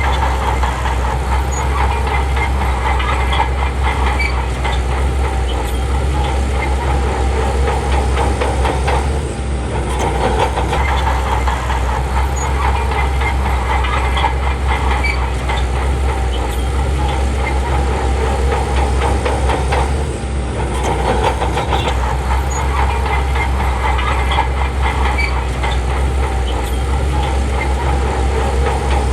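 Crawler bulldozer working: its diesel engine runs steadily under load while the steel tracks clatter. The sound eases briefly twice, about a third and two-thirds of the way through.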